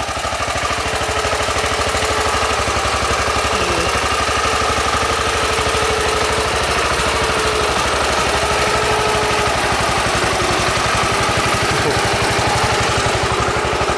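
Small homebuilt tractor's engine running steadily, a fast, even chugging that holds at one speed.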